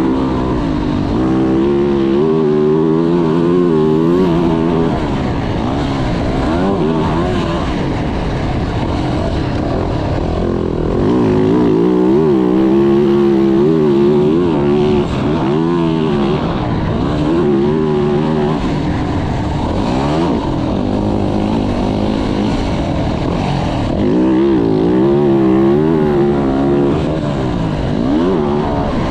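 Four-stroke motocross bike engine being ridden hard, its pitch climbing and dropping again and again as the throttle is opened and shut, with a few longer stretches held at high revs.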